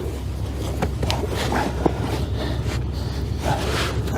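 Rustling and a few sharp clicks of fishing gear being handled, likely a landing net being moved aside, over a steady low hum.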